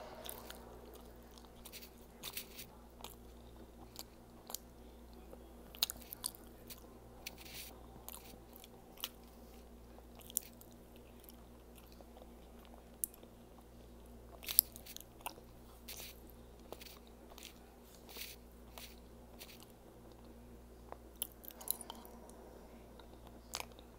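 A person chewing food close to the microphone, with frequent irregular sharp mouth clicks and lip smacks, the loudest about halfway through, over a low steady hum.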